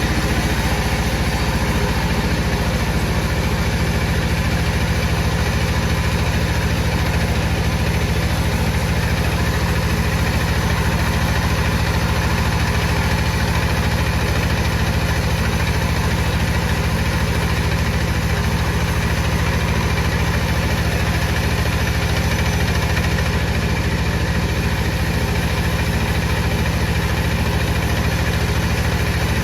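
Wood-cutting saw machine running steadily with a low hum, its sound unchanged throughout.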